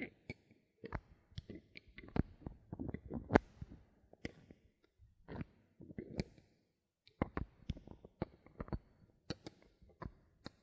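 Close-miked plastic bottle caps being handled, twisted and tapped: an irregular run of sharp clicks, several a second, with soft rustling between, the loudest click about a third of the way in and a short pause a little past the middle.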